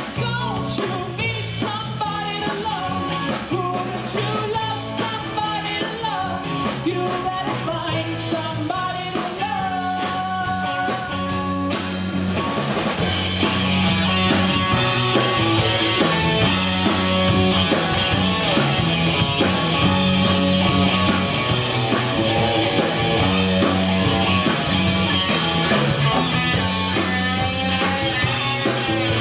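Rock music with bass and drums under a bending melodic lead line; about halfway through, a distorted electric guitar comes in and the music gets louder and brighter.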